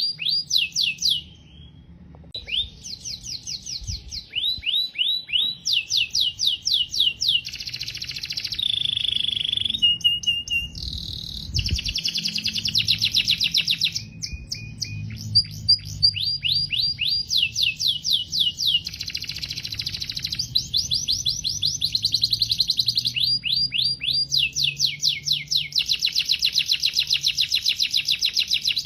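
Domestic canary singing a long, continuous song of rapid trills, each trill a fast run of repeated notes that changes to a new note type every second or two, with a few short steady whistled notes between them. There is a brief pause near the start.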